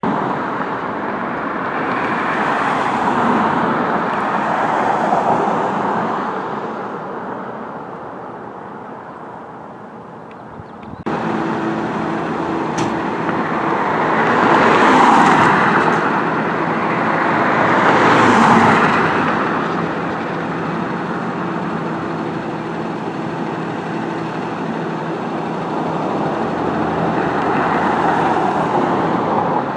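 Road traffic going by on a street: a steady hum of tyres and engines that swells as vehicles pass, twice strongly in the second half. The sound jumps abruptly louder about a third of the way in.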